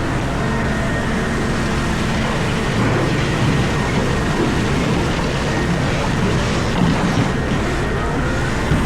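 Komatsu PC4000 mining excavator heard from inside its cab: a steady, heavy machine drone, with louder, uneven rattling and surges from about three seconds in.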